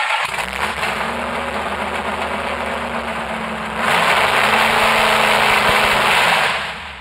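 V8 engine running on its first start, a steady engine note with a lot of hiss, getting louder about four seconds in, then shut off near the end.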